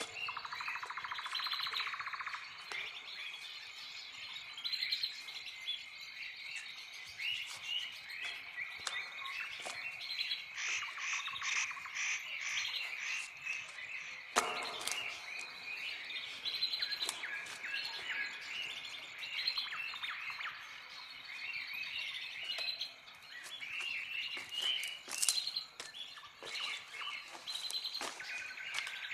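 Several songbirds chirping and trilling, their calls overlapping throughout. A single sharp click comes about halfway through.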